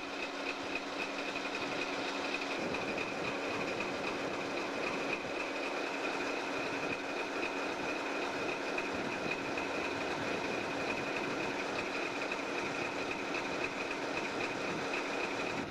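Baldwin-Lima-Hamilton 60-ton switcher locomotive with a 500 hp Caterpillar diesel, running steadily: an even rumble with a steady high-pitched tone over it.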